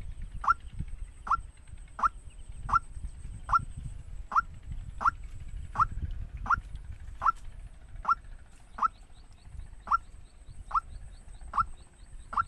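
Waterhen giving a steady, evenly spaced series of short, sharp rising call notes, about one every three-quarters of a second, over a low rumble.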